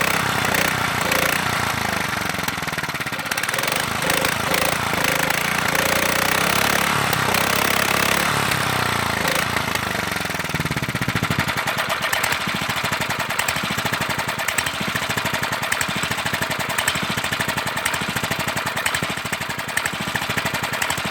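Lombardini LGA 225 single-cylinder air-cooled petrol engine running. About halfway through its sound changes and it settles into a rapid, even firing beat.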